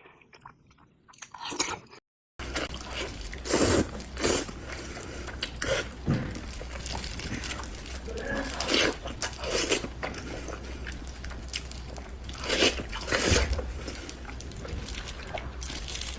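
Close-up eating sounds: a person biting and chewing food, with several louder, crunchy bites among steady chewing. About two seconds in the sound cuts out briefly, and after that a steady low hum runs under the chewing.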